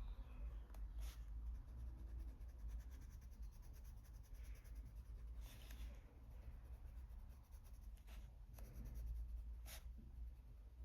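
Faint scratching of a coloured pencil on paper in short shading strokes, laying dark green into the shadow areas with fairly heavy pressure, over a steady low hum.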